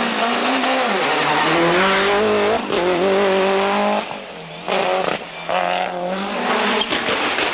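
Toyota Celica GT-Four ST185 rally car's turbocharged four-cylinder engine accelerating hard. Its pitch climbs with a short break for an upshift about two and a half seconds in. About four seconds in the sound drops away, then comes back in short bursts of revving.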